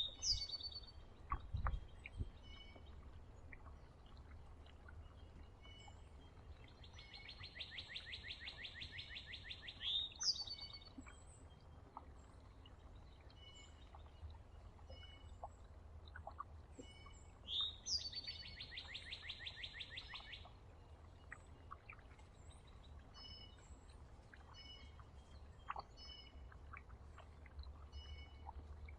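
Songbirds calling and singing at a feeder: twice, a rapid even trill lasting about three seconds ends in a sharp falling whistled note, with short chirps scattered between. A dull thump comes about two seconds in, over a steady low rumble.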